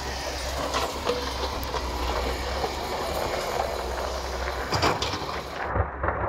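Excavator's diesel engine running steadily under load, with a few sharp knocks and clatter. Near the end the sound turns duller.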